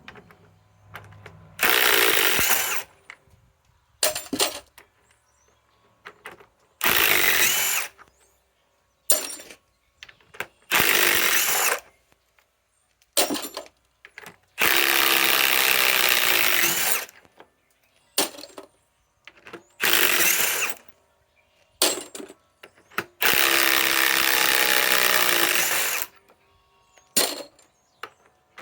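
Ryobi PSBIW25 compact impact wrench backing lag screws out of wood, run in repeated bursts of one to two and a half seconds with short blips of the trigger between and brief pauses as each screw is removed.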